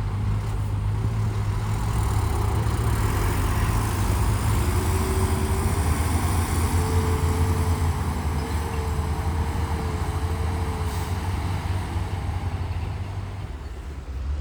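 Heavy diesel engine of earthmoving machinery running steadily with a deep hum, a faint wavering whine rising over it through the middle.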